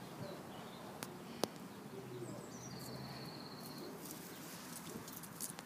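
Faint outdoor background with a bird's short high trill in the middle and two sharp clicks about a second in.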